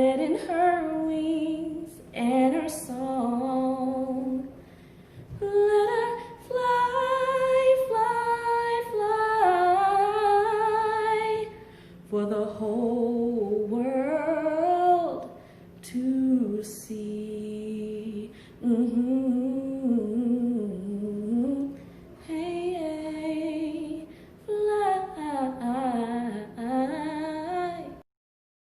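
A woman singing solo a cappella without recognisable words, humming and vocalising the closing melody in several long phrases with short breaks for breath. The voice stops about 28 seconds in.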